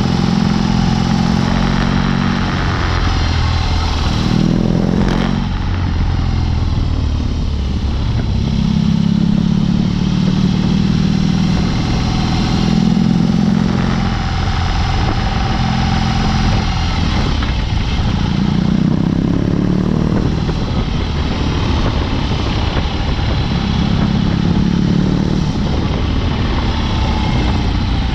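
BMW R18's big boxer twin running through a Dr. Jekill & Mr. Hyde exhaust while riding, the engine note swelling and easing off several times as the throttle is opened and closed.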